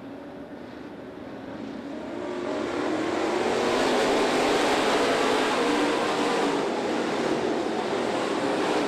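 Dirt late model race cars' V8 engines, a pack of them growing steadily louder over the first few seconds, then running loud and steady as they come by.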